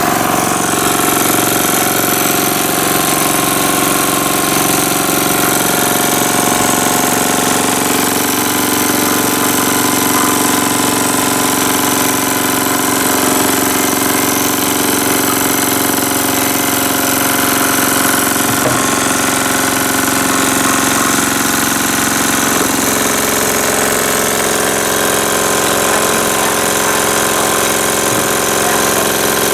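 Jensen slide-valve model steam engine running steadily on about 6 psi of live steam: an even, continuous mechanical running sound mixed with steam hiss.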